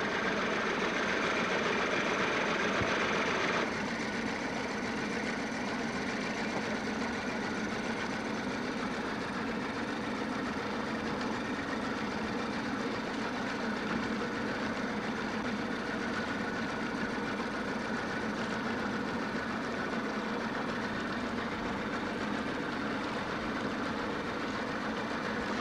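Boat engine running steadily, heard from on board, dropping slightly in level about four seconds in.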